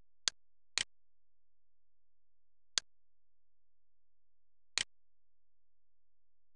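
Four short, sharp computer mouse clicks, the first two half a second apart and the others about two seconds apart, over dead silence.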